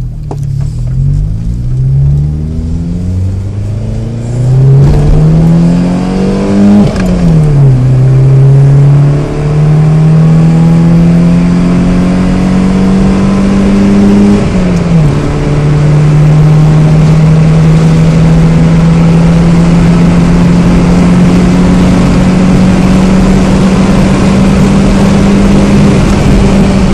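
VW Golf 1.8-litre four-cylinder engine accelerating hard from a standstill: revs climb to redline in first gear, drop sharply at the shift to second about 7 s in, climb to redline again and drop at the shift to third about 14 s in, then rise slowly and steadily in third.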